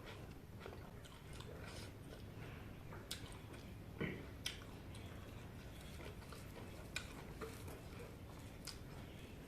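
Close-up eating sounds of a person chewing chicken curry: soft chewing with sharp mouth clicks and smacks scattered through, the loudest a little after four seconds in.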